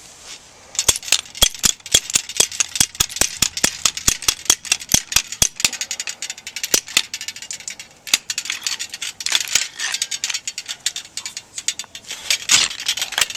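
Copper tubing being bent in a hand tubing bender: the bender's ratchet clicks sharply about three to four times a second, turning into a denser, irregular clatter after about five seconds.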